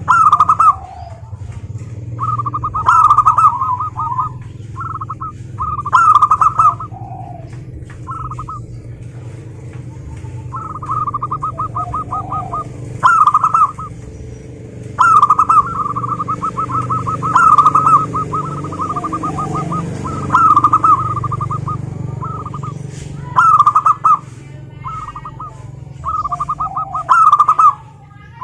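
Zebra doves (perkutut) cooing: bouts of rapid, staccato purring coos, repeated every few seconds, some louder than others.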